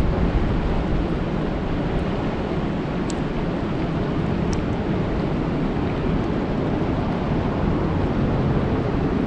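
Steady rain falling on a lake: an even, dense hiss with a deep rumble underneath and a couple of faint high ticks.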